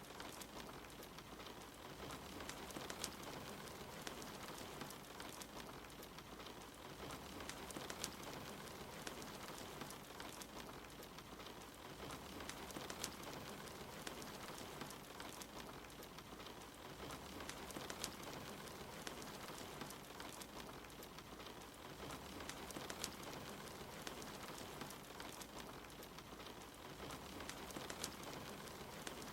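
Steady rain with a wood fire crackling: an even hiss of rain with scattered sharp pops from the fire.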